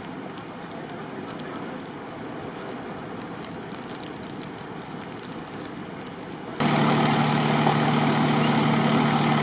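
Steady street ambience with faint crackles. About two-thirds of the way in it gives way abruptly to the louder, steady hum of an idling vehicle engine, holding two low tones.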